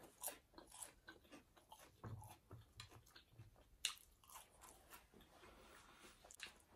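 Faint, close-miked chewing of food: soft wet mouth clicks and smacks throughout, with a few low thumps a couple of seconds in.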